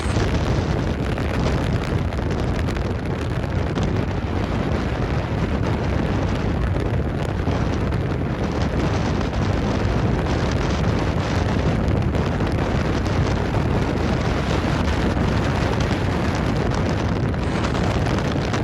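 Strong wind buffeting the microphone: a loud, steady rush with a heavy low rumble that starts abruptly and holds without letting up.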